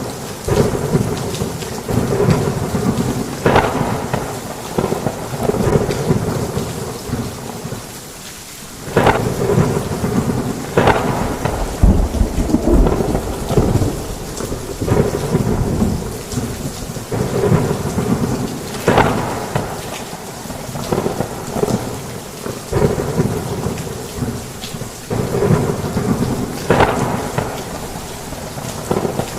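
Heavy rain on a roof with repeated rumbles and cracks of thunder, the deepest rumble about twelve seconds in.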